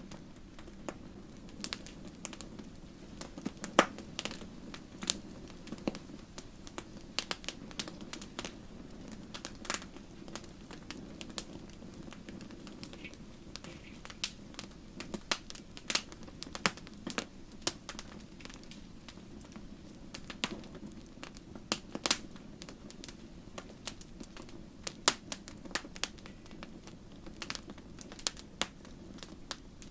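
Wood campfire crackling: irregular sharp pops and snaps, several a second and some louder, over a low steady rumble of the burning fire.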